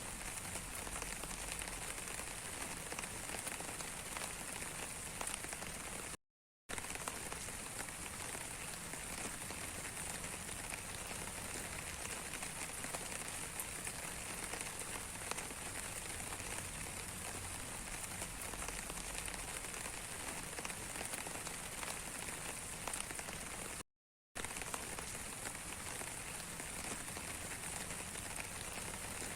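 Rain falling steadily, a continuous patter of drops. The sound cuts out completely twice for a split second, about six seconds in and again near the end.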